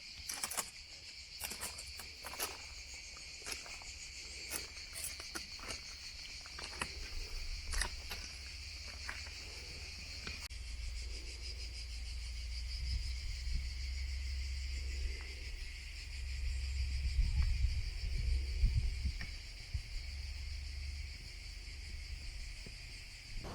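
A steady, high-pitched chorus of insects chirring, with scattered clicks through the first half and a low rumble in the second half.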